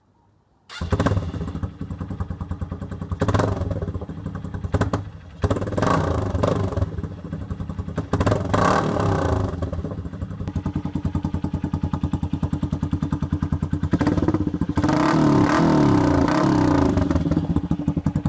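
Honda XR125's single-cylinder four-stroke engine running through an aftermarket exhaust, coming in about a second in with a rapid thumping idle. It is blipped several times, with a longer rev about three-quarters of the way through before it settles back to idle.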